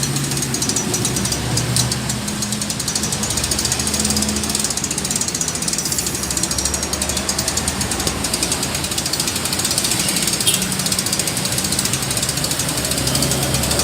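Small diesel engine running steadily while driving a plastic shredder, with a fast, even mechanical clatter over the engine's low hum.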